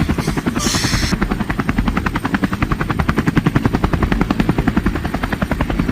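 Helicopter rotor chopping steadily with a fast, even beat of blade pulses. A short burst of hiss sounds about a second in.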